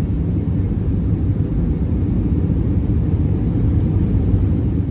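Steady low rumble of airflow and jet engines heard inside the cabin of an Airbus A321neo descending toward landing.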